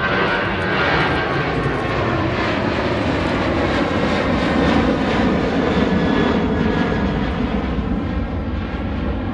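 Airliner engines passing close, a loud steady rumble with a whine running through it, easing slightly near the end.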